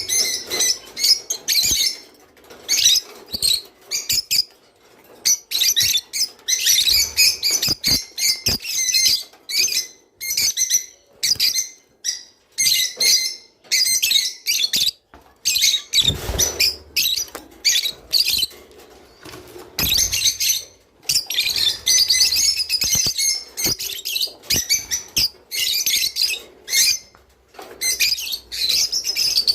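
Rosy-faced lovebirds chirping and chattering in a rapid, continuous string of sharp calls with only brief gaps.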